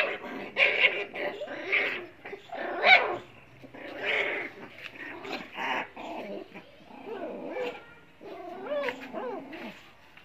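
Puppies play-fighting, making short, irregular dog noises one after another; the loudest come at the very start and about three seconds in.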